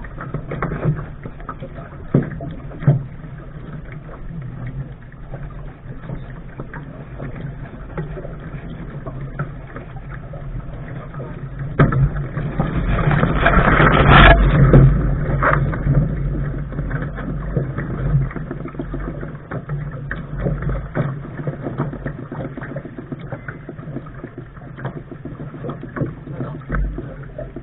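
Wind buffeting the microphone and water rushing along a Lark sailing dinghy's hull under way, with scattered small knocks. About twelve seconds in the rush grows louder for a few seconds, then falls back.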